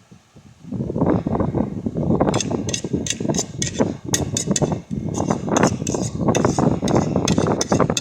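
Rapid, irregular sharp clicks and knocks of small hard objects, several a second, starting about two seconds in, over a dense lower clatter.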